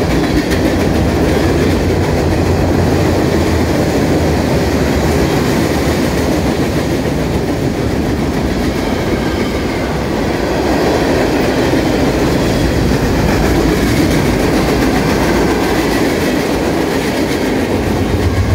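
Freight train cars rolling past close by, a steady rumble of steel wheels on the rail with clicking over the joints. Near the end, a distributed-power diesel locomotive mid-train comes alongside and its engine joins the rumble.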